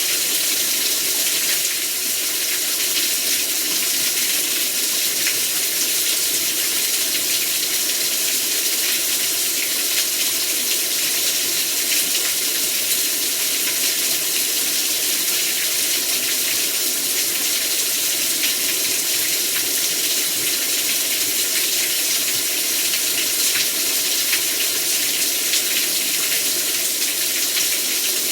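Heavy rain pouring down: a dense, steady hiss of water with scattered fine drop ticks, unchanging throughout.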